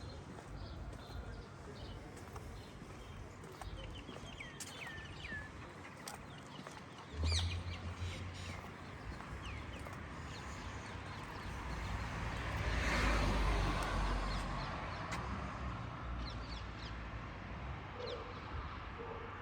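Street ambience: small birds chirping, with a low engine rumble that starts suddenly about a third of the way in and a vehicle passing that swells and fades a little past the middle.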